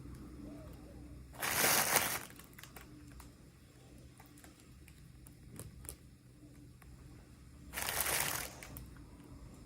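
Toy packaging being handled: two short bursts of crinkling, with light clicks and taps in between.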